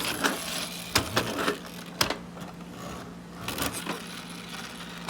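Handling noise from a tin-plate toy truck being turned in the hands: light rubbing and scraping, with two sharp clicks about a second apart early on the toy's metal and plastic parts.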